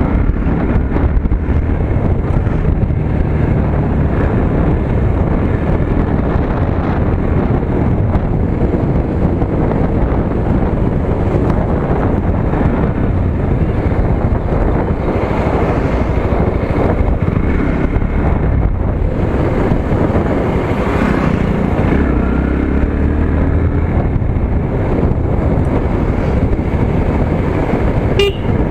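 Motorcycle engine running under a steady rush of wind on the microphone while riding.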